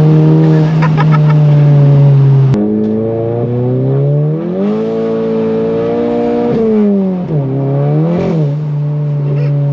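Volkswagen MK7 GTI's turbocharged 2.0-litre four-cylinder, fitted with a big IS38 turbo and aftermarket exhaust, pulling hard. The revs climb and hold, drop sharply at a gear change about seven seconds in, spike briefly, then settle into a steady drone.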